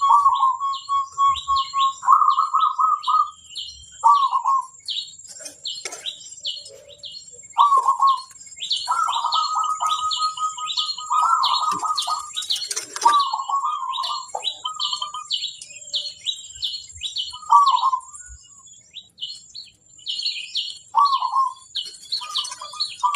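Zebra dove (perkutut) cooing in repeated trilled phrases, while a small bird chirps rapidly and steadily alongside.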